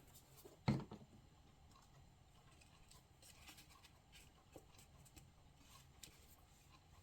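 Paper craft pieces being handled and pressed onto a paper plate: one sharp knock under a second in, then faint paper rustles and light taps.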